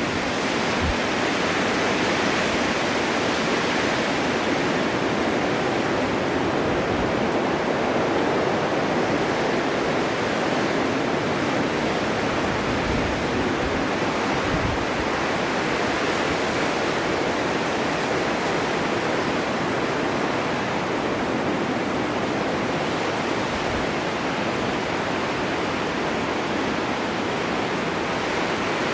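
Steady snowstorm wind, an even rushing hiss with no distinct gusts.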